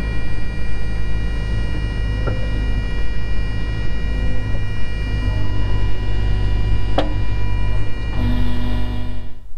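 Cat 307 excavator's diesel engine running steadily, a deep hum with several high whining tones over it, and a single sharp knock about seven seconds in. The sound cuts off suddenly just before the end.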